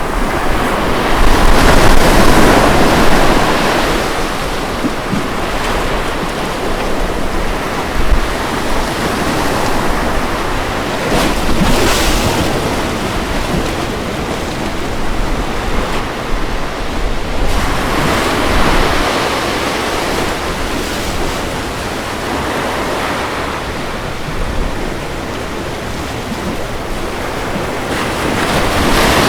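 Ocean waves breaking and washing up on a beach, a steady rush of surf that swells and eases as each wave comes in, loudest early on the first swell about two seconds in.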